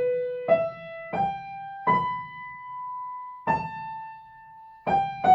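Piano playing a slow right-hand melody one note at a time, each note struck and left to ring: four notes climbing (B, E, G, B), the top B held longest, then stepping down to A and G near the end.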